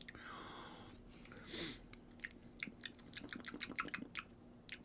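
Faint close-up chewing of soft, jelly-like halwa: a rapid run of small wet mouth clicks and smacks through the second half, after two short hissing rustles in the first two seconds.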